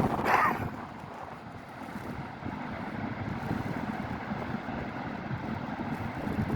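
Wind buffeting the microphone: a steady, gusting low rumble. A brief higher-pitched sound stands out about half a second in.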